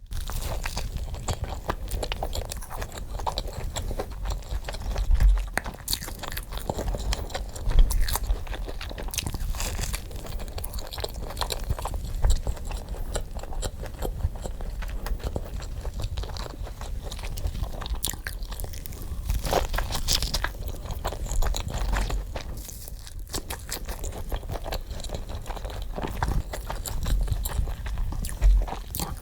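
Close-miked chewing and crunching as a person bites into and eats crispy fried chicken wings: a dense, irregular run of crunches.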